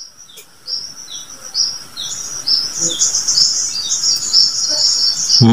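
Small birds chirping and twittering rapidly in a high, busy chorus of short falling chirps, building about a second in and carrying on.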